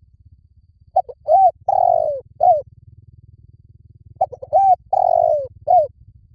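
Spotted dove cooing: two identical phrases about three seconds apart. Each phrase is four coos, the third the longest and falling in pitch.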